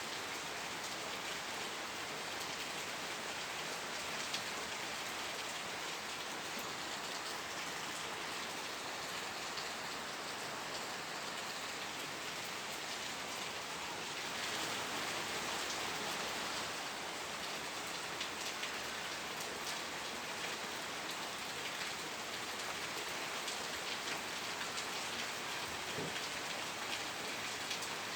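Steady rain falling on a surface, a dense even hiss with many small drop ticks, swelling slightly for a few seconds in the middle.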